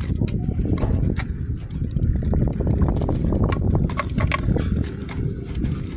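Metal tools and motorcycle clutch parts clinking and knocking, many short irregular ticks over a steady low rumble.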